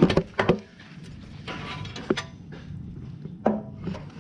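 Knocks and clunks of a planer's extension table being hooked onto the planer body and worked into place: two sharp knocks at the start, a light scraping, then single knocks about two seconds in and again near the end.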